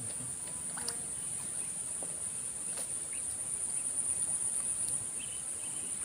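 Insects trilling steadily, a continuous high-pitched buzz, with a few faint ticks scattered through it.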